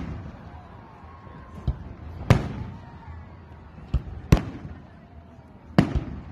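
Aerial firework shells bursting overhead: loud bangs about two seconds in, a close pair near four seconds, and another near the end, each followed by an echo that dies away.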